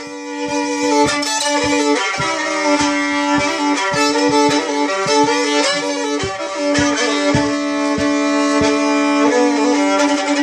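Fiddle playing an instrumental passage, a wavering melody over a held drone note, with low thumps keeping the beat.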